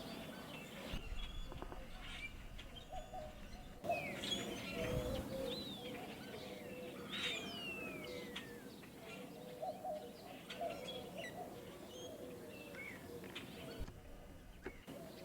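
Several birds chirping and calling, with short whistled notes sliding up and down in pitch.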